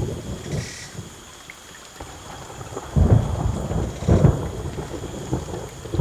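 Thunder rumbling as a storm approaches a rainforest: a rumble dies away over the first two seconds, then two fresh low rolls break about three and four seconds in.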